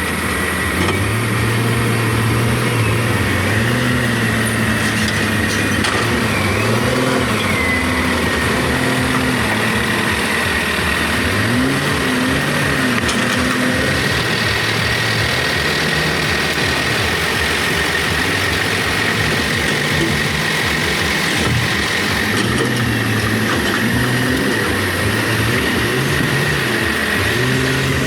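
Diesel engine of a large log-handling forklift running, its pitch repeatedly rising and falling as it is revved up and eased off, over a steady high-pitched whine.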